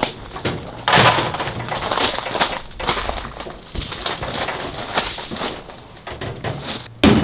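Objects being handled and set down: irregular clattering and crackling. Music starts near the end.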